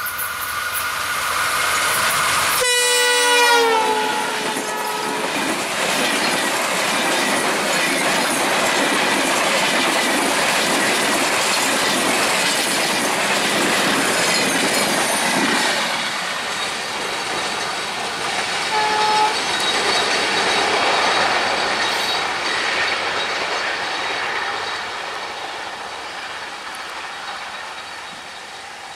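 Express train passing at speed behind a WDM-3A diesel-electric locomotive. The horn sounds and drops in pitch about three seconds in as the locomotive goes by. The coaches follow, rushing past with a fast clickety-clack of wheels over the rail joints, and the sound fades away as the train recedes.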